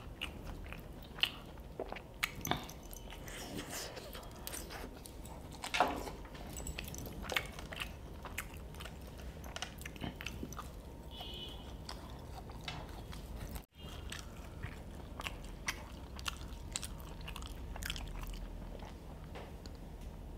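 Close-up mouth sounds of a person chewing and biting Maggi noodles and crunchy fried chicken popcorn: irregular wet clicks and crunches. The sound drops out briefly about two-thirds of the way through.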